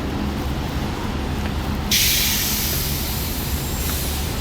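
Steady city traffic rumble, with a sudden loud hiss about two seconds in that lasts almost two seconds and fades out.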